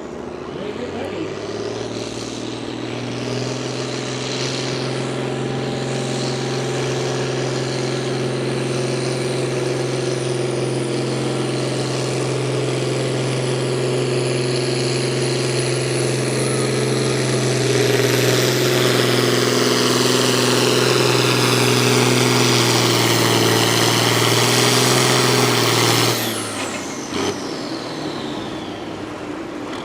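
A competition pulling vehicle's engine running flat out through a hook pass, with a steady, heavy engine note and a high whine over it. The sound builds gradually, and the whine climbs sharply about two-thirds through. Near the end the engine shuts off abruptly, and the whine winds down over a few seconds.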